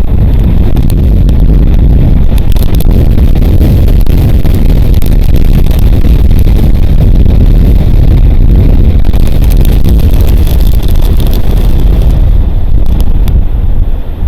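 Strong wind buffeting the nest camera's microphone: a loud, steady, deep rumble with a few faint ticks over it.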